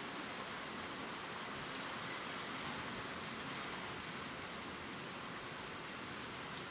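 Gentle rain falling steadily on leaves, an even patter with no breaks.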